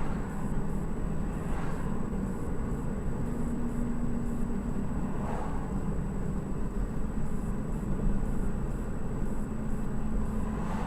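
Steady engine and road noise of a car driving, with a few faint swells as other traffic passes.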